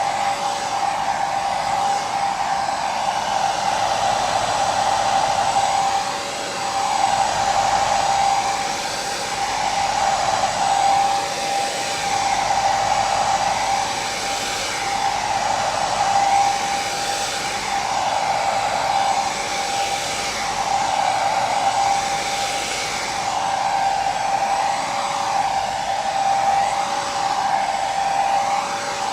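Hair dryer running steadily on continuous blow: an even rushing air noise under a constant motor whine, wavering slightly and slowly.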